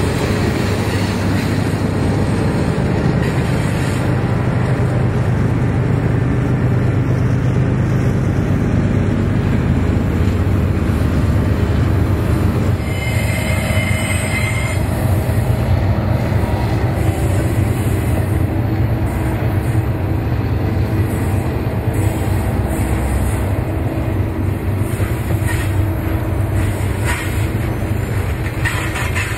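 Doublestack container freight train rolling past on curved mountain track: a steady low rumble of cars and wheels, with clicking of wheels over the rails. A brief high wheel squeal comes about halfway through.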